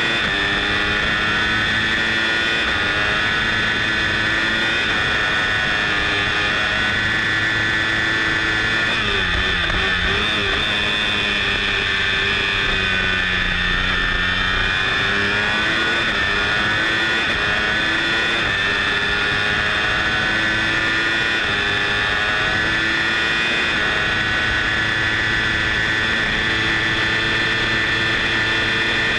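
Moto3 racing motorcycle's 250 cc single-cylinder four-stroke engine screaming at high revs, with wind rush. About nine seconds in the revs fall for a corner, then climb again from about fifteen seconds as the bike accelerates out.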